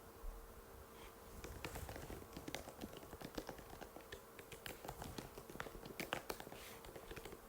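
Typing on an Apple MacBook butterfly keyboard: quick, irregular key clicks, several a second, with a faint steady hum underneath.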